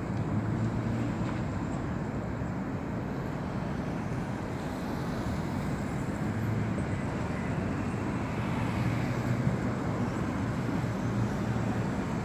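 Steady traffic noise: a low, even rumble of road vehicles with a faint hum.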